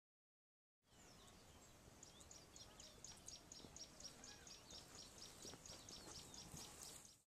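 Faint outdoor ambience after a moment of dead silence, with a bird repeating a short, high chirp about six times a second from about two seconds in; the sound cuts off abruptly near the end.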